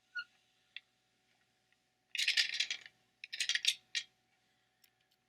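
Plastic Lego Duplo pieces clattering against each other as they are handled: a couple of single clicks, then two short bursts of clatter about two and three and a half seconds in.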